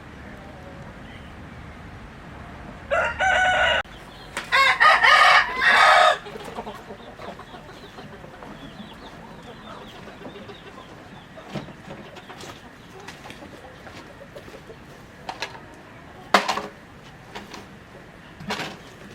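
Rooster crowing once, about three seconds in: a short opening note, a brief break, then a longer wavering call. Chickens give a few short clucks and squawks later.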